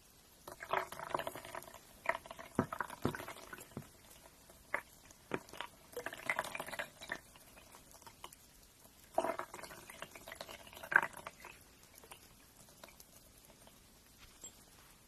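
Nail grinding in three scratchy bursts of a second or two, with scattered sharp clicks between them; it trails off to quieter, sparse ticks near the end.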